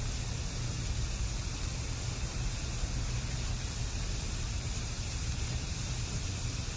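Bamboo burning in a campfire with a steady hiss over a low rumble, the sound of moisture inside the bamboo boiling off as steam.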